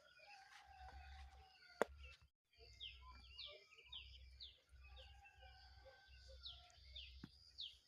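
Faint birdsong outdoors: many short, high chirps, each falling quickly in pitch, repeated throughout, with a few lower held notes. A single sharp click comes a little under two seconds in, and a low rumble runs underneath.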